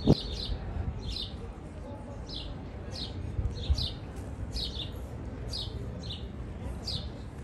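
A small songbird chirping over and over, short high notes that slide down, about two a second, over a low steady rumble.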